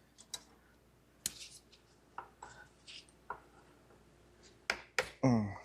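Scattered sharp plastic clicks and small knocks of wiring-harness electrical connectors being handled and unplugged from the engine, with a short low sound falling in pitch near the end.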